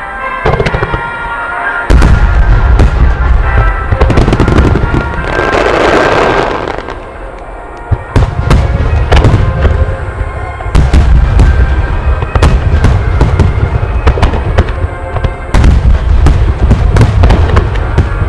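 Fireworks barrage: heavy booming shell bursts and many sharp cracks in quick succession, starting about two seconds in, with a rushing hiss swelling near the middle. Music plays through loudspeakers underneath.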